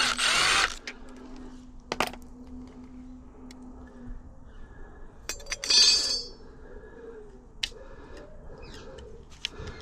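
Metal screws and small gearbox parts being handled and clinking together as a UPVC door gearbox is stripped down. A short hissy burst comes at the start, then a sharp click about two seconds in, and the loudest clinking about six seconds in.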